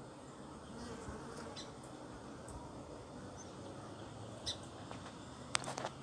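Honeybees buzzing at a hive entrance: a faint, steady hum of many bees, with a few small clicks near the end.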